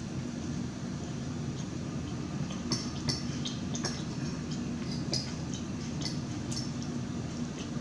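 Close-up eating sounds: a person chewing food, with a scattering of short, sharp clicks, over a steady low hum.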